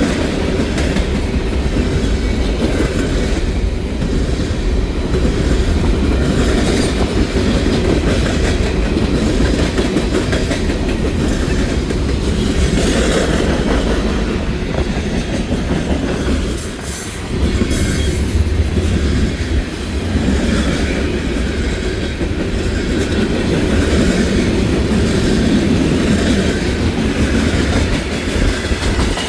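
BNSF freight train passing quickly, its cars' wheels rumbling and clacking over the rail joints. There is a short lull in the noise about seventeen seconds in.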